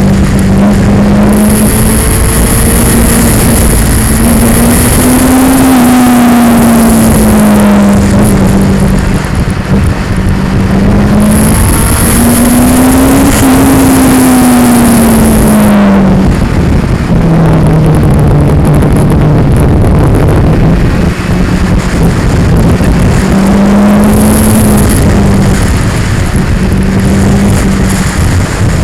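2002 Yamaha R6's inline-four engine running at road speed, its note rising and falling a few times with the throttle, under heavy noise from the vibrating action camera.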